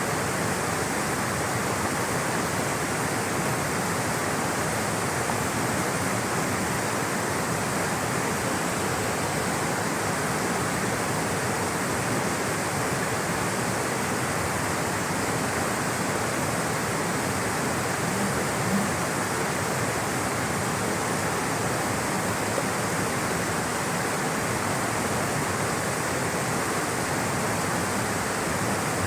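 Rushing water flowing steadily, a dense even hiss with no breaks.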